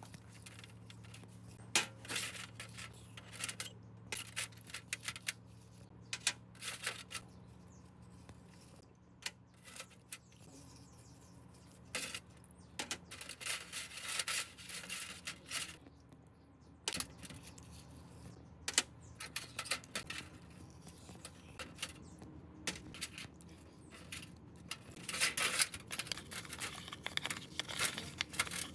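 Small metal parts and hand tools clinking, tapping and scraping in irregular clusters, with a faint steady low hum through the first half.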